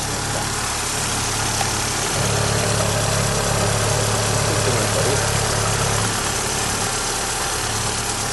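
A 1.8-litre single-point (mono) injection petrol engine idling steadily, with a low hum that gets louder for a few seconds in the middle. It runs evenly and cleanly.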